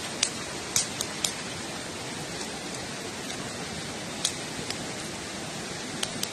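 Wood campfire burning with a steady hiss and irregular sharp crackles and pops. The pops cluster in the first second and a half, with a few more about four seconds in and near the end.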